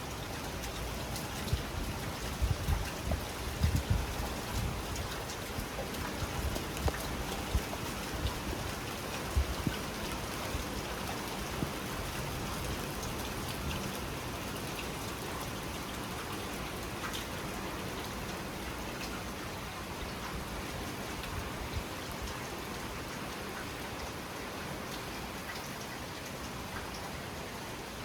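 Steady heavy rain falling during a night thunderstorm. In the first ten seconds there is a spell of louder, lower thumps and sharp splashes.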